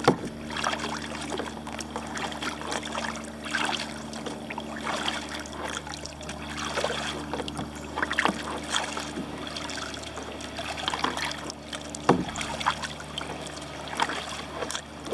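Kayak paddle strokes: water splashing and dripping off the paddle blades at an irregular pace, over a steady low hum.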